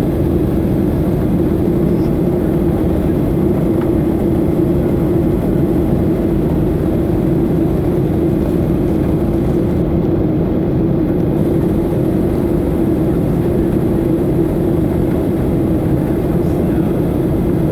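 Boeing 737-800 in flight under power: the steady noise of its CFM56-7B jet engines and rushing air, with a constant low hum and no change in level.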